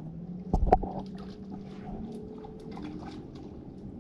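Two sharp knocks about half a second in, then faint clicking and dripping of water as a freshly caught fish is handled aboard a kayak.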